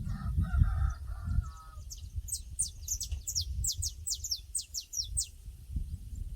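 Pasture ambience: a bird sings a rapid run of high, falling notes for about three seconds, starting about two seconds in. Before that there is a lower, pulsing animal call, and a low rumble runs underneath throughout.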